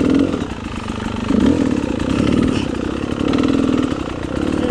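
Dirt bike engine running, its revs rising and falling unevenly several times.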